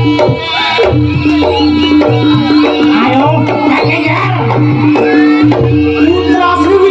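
Live jaranan music from a Javanese ensemble: drums and a low gong under a steady repeating pair of pitched tones, with a high melody that bends in pitch.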